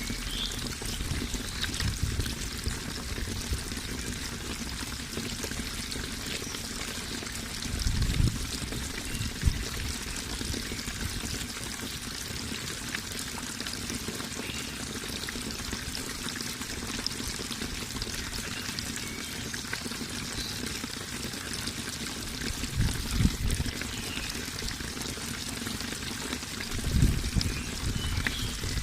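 Water running and splashing steadily, a continuous even rush, with a few brief low thumps about eight seconds in and again near the end.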